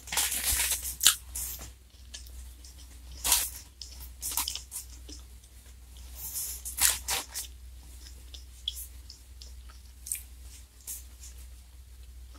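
Chewing of a crunchy ice cream cone wafer, with crisp crunches loudest in the first second and a half and again around three and seven seconds in, then fainter mouth clicks.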